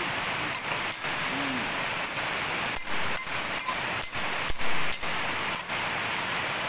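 Shallots, garlic and chilli frying in hot oil in a wok, a steady sizzle.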